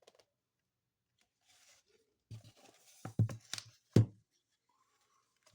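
A short rustle, then a handful of knocks and thumps, the loudest about four seconds in: handling noise in a small room.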